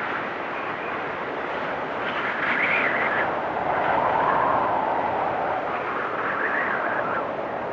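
Blizzard wind blowing in gusts: a steady rush with whistling howls that swell and shift in pitch, higher about two and a half seconds in, lower around the middle, and rising again near the end.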